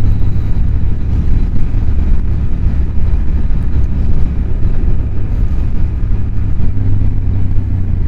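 Motorcycle engine running steadily while under way on the road, with a dense low rumble.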